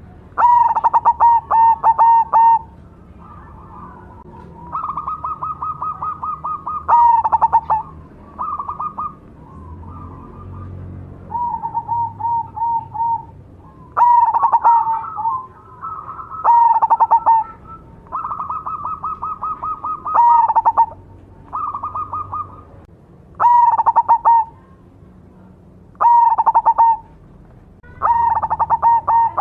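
Cemani (black) zebra dove singing: a series of rapid, stuttering coo phrases, each a second or two long, repeating about every two seconds.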